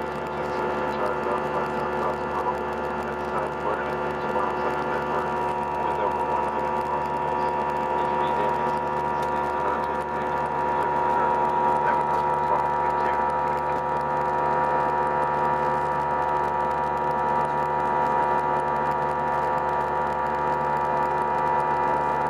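Airbus A319 jet engines heard from inside the cabin in flight: a steady drone with several high, unwavering tones over a low hum, growing a little louder about halfway through.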